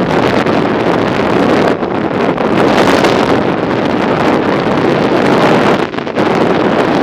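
Wind buffeting a microphone moving at riding speed on a bicycle: a loud, steady rushing noise with small surges and a brief dip near the end.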